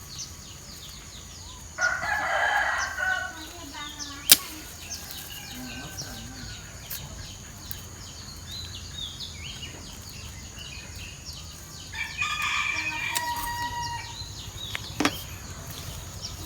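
A rooster crowing twice, once about two seconds in and again about twelve seconds in, each crow lasting one to two seconds. Two sharp clicks fall between and after the crows, over steady high insect chirping.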